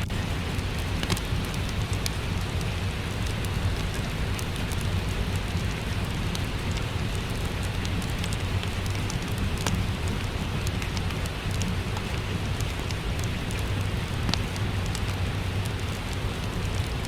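Steady rain with a low rumble underneath, mixed with the scattered sharp pops and crackles of a wood fire in a fireplace.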